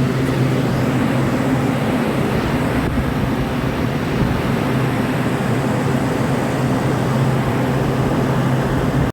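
Midea 25-ton packaged air-conditioning unit running, its compressors and condenser fans making a loud, steady rush of air over a constant low hum. One of its two compressors is drawing high current, which the technician puts down to a capillary too small for the oversized replacement compressor.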